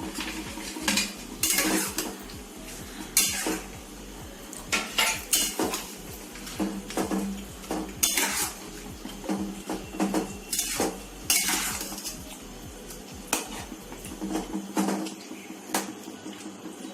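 A cooking spoon scraping and clacking against a pan as fried chicken pakoras are stirred and tossed into a thick chili sauce gravy, in irregular strokes, some sharper and louder than others.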